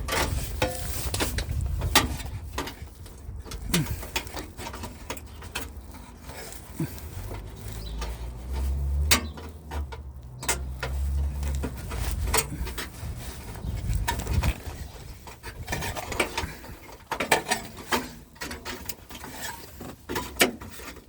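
Hand tools clicking and knocking irregularly against screws and metal under a car while fasteners are tightened, with a low rumble for a few seconds midway.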